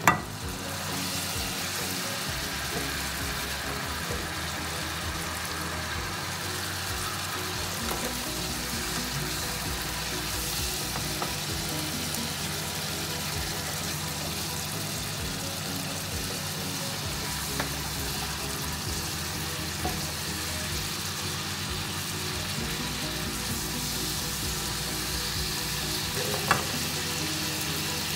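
Sauce, meat and vegetables sizzling steadily in a frying pan over high heat while being stirred with a spatula. A few sharp clicks come from the spatula striking the pan.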